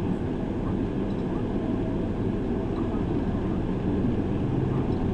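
City bus engine and road noise heard from inside the passenger cabin: a steady low drone with an engine hum beneath it.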